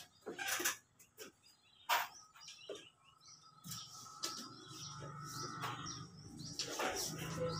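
Small birds chirping, with scattered knocks and clatter from building work in the first few seconds; a low steady hum comes in about four seconds in.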